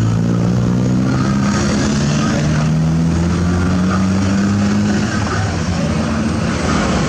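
Excavator's diesel engine running under load. Its pitch climbs slowly for several seconds, then drops back about five seconds in.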